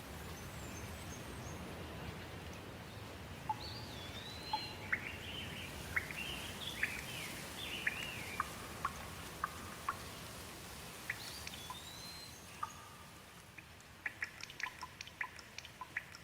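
Steady light rain with a songbird singing short whistled phrases through the middle. Near the end the rain thins and a run of quick drip-like ticks takes over.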